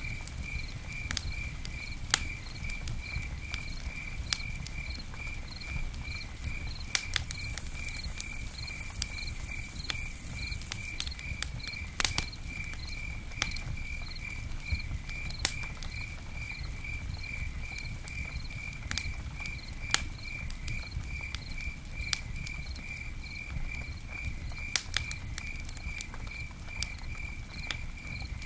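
Campfire burning, with sharp irregular crackles and pops over a low rumble from the flames. A cricket chirps steadily in a high pulsed tone about three times a second, and a soft high hiss rises for a few seconds near the middle.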